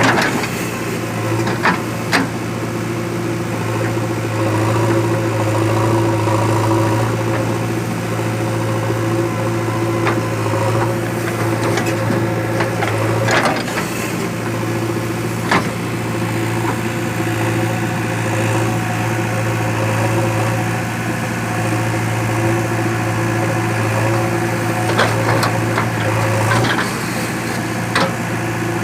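Heavy diesel engine running steadily at a constant speed, with a few sharp knocks scattered through.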